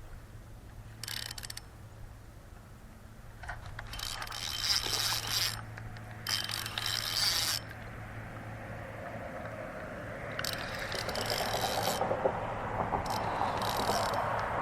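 Fishing reel being cranked in several short bursts of a second or two each, a whirring, ratcheting mechanical sound.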